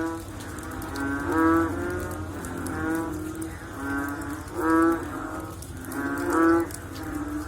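Frogs calling after rain: several low, drawn-out moo-like calls overlapping one another, repeating every second or so, with the loudest calls about a second and a half in, near five seconds and near six and a half seconds.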